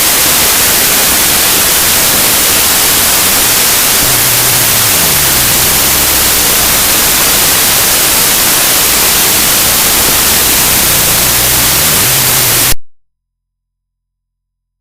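Audacity.exe program file played back as raw audio data: loud, harsh static-like noise, with faint low tones stepping up and down beneath it in the middle stretch. It cuts off abruptly near the end.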